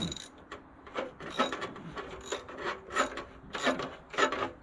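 Socket ratchet working a bolt loose, its pawl rasping in short repeated strokes about twice a second.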